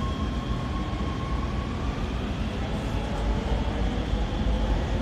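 Metro subway train running and picking up speed, heard from inside the car: a steady rumble of wheels on rail with a faint motor whine.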